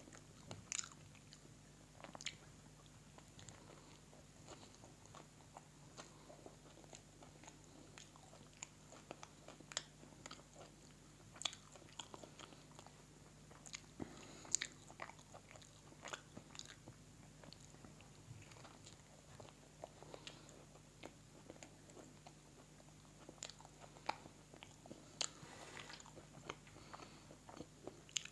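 A person chewing mouthfuls of chapli burger: irregular soft mouth clicks throughout, with a few sharper bites standing out.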